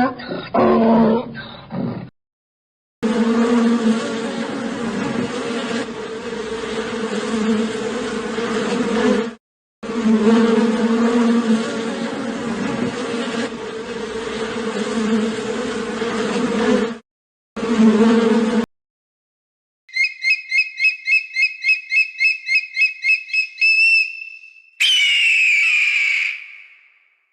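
Steady insect buzzing, like a bee or fly in flight, in three stretches with short breaks. It is followed by a rapid high trill of about four pulses a second, then a shrill call falling in pitch.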